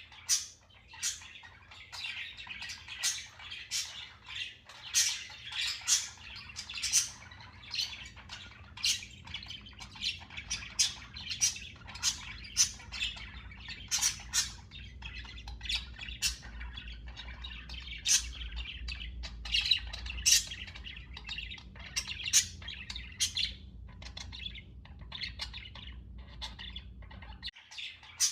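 Pet budgerigars chirping and chattering, a quick run of short, sharp chirps and squawks, several a second. A faint low hum runs underneath and stops shortly before the end.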